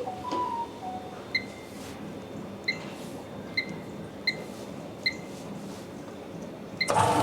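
Control panel of a vacuum leak tester beeping at key presses: six short, high beeps about a second apart. Near the end the tester's vacuum pump starts and runs with a steady hum as it begins drawing vacuum in the test chamber.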